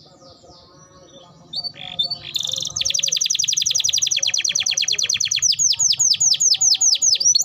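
Domestic canary singing vigorously: after a quieter start, a loud, very fast trill of rapidly repeated high notes sets in about two and a half seconds in, changing near the end to a slower run of down-sweeping whistles.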